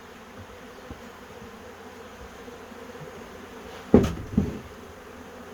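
Honey bees buzzing steadily around the hive, with a sharp knock about four seconds in and a softer second knock just after it.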